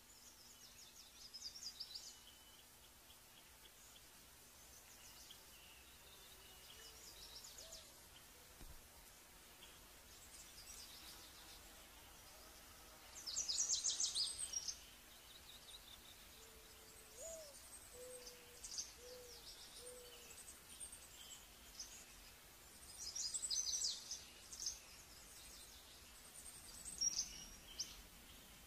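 Wild birds calling: short bursts of rapid, high-pitched chattering trills come every few seconds, the loudest about halfway through. A few low hooting notes sound just after the middle.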